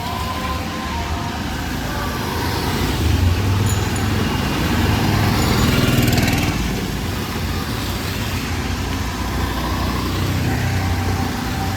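Street traffic: motor vehicle engines running, with one vehicle passing close by, loudest about six seconds in.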